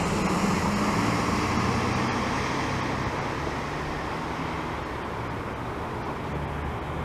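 Jet airliner's engines passing overhead: a steady wide-band rush that is loudest about half a second in and then slowly fades away.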